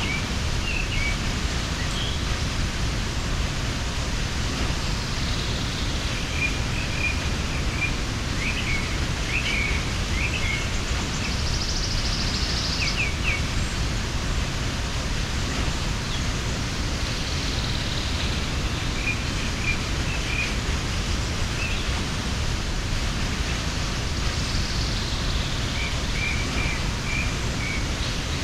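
A mountain waterfall rushing steadily, with small birds chirping on and off above it.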